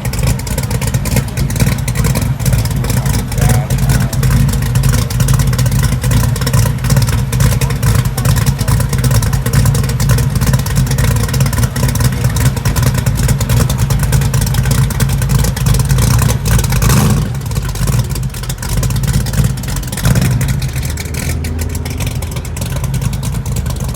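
Loud car engine running close by, with a steady low exhaust note broken into rapid pulses. About 21 seconds in it drops to a lower, quieter note.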